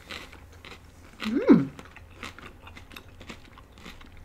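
Close-up chewing and biting of a poke bowl, with small wet mouth clicks throughout. About a second and a half in comes a short closed-mouth "mm" hum that rises and then falls in pitch, the loudest sound here.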